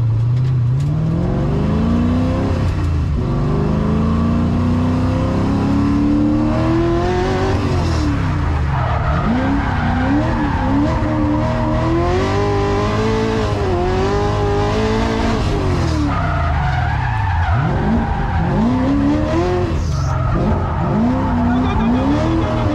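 Nissan 350Z drift car's engine, heard from inside the cabin, revving as the car is drifted, with its tyres squealing. The revs climb steadily for the first few seconds, then rise and fall over and over as the throttle is worked.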